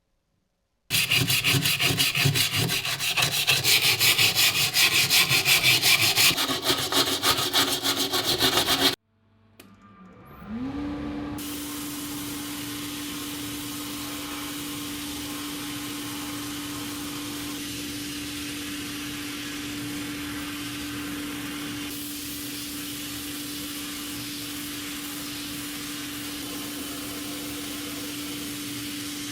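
Rapid, loud rasping strokes of hand scraping or sanding go on for about eight seconds and stop abruptly. After a short pause an electric motor spins up and runs on with a steady hum.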